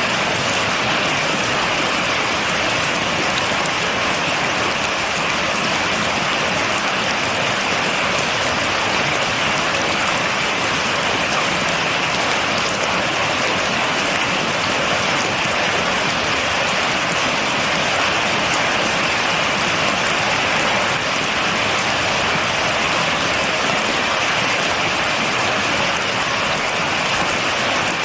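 Steady rain falling on a surface, a dense even patter with many fine drop ticks, without thunder.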